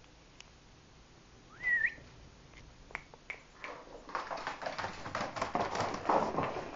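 A dog gives one short, high whine about one and a half seconds in. A dense run of clicks and scuffling follows from about the middle to the end.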